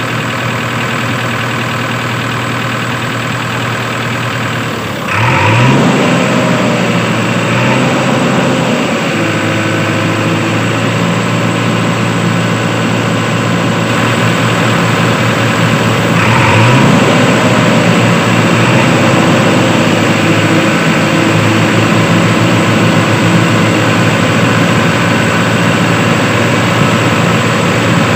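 Tractor engine running steadily. It revs up sharply about five seconds in and again around sixteen seconds, and runs louder after the first rev.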